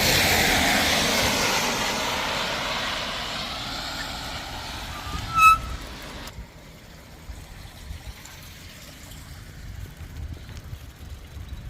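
A vehicle passes on the wet road, its tyre hiss swelling at the start and fading over several seconds. About five seconds in, a bicycle's rim brake gives one short, high squeal.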